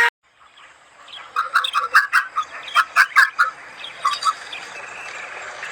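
Birds chirping: a quick run of short, sharp calls, several a second, lasting about two seconds, then a few scattered chirps.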